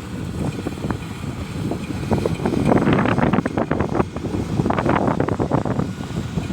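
Kubota 70 rice combine harvester running under load while cutting rice, a rumble with a steady rattle that swells a couple of times, with wind buffeting the microphone.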